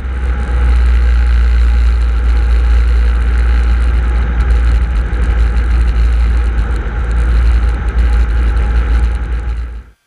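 Steady drone of a Cessna 150's Continental O-200 engine and propeller, picked up by an open cockpit microphone. It is loud and deep, and it switches on and cuts off abruptly, as the mic opens and closes.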